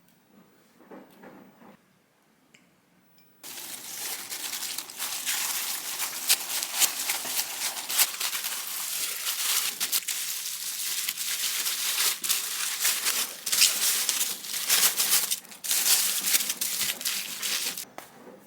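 Wrapping material crinkling and rustling as it is handled, with many sharp crackles. It starts suddenly a few seconds in and pauses briefly a few times.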